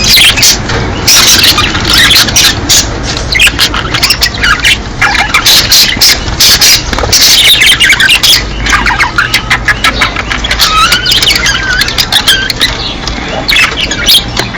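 A flock of budgerigars chattering, warbling and squawking without a break, many short calls overlapping. These are breeding-season calls, of the kind played to caged budgies to stir them to mate.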